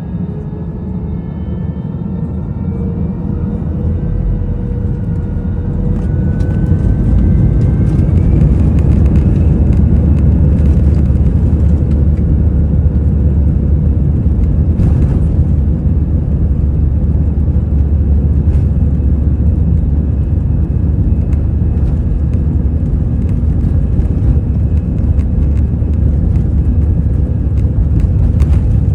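Airbus A320's CFM56 turbofan engines spooling up to takeoff thrust, heard from the cabin: a whine rising in pitch over the first several seconds as the sound grows louder, then a loud, steady low rumble through the takeoff roll.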